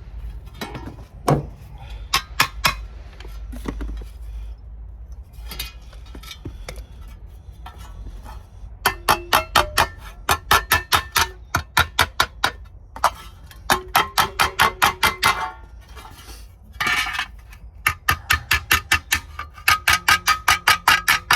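Runs of rapid metallic taps on sheet steel, several a second, each with a short ringing tone, coming in bursts with pauses between them: a hammer tapping a steel sill repair panel into shape.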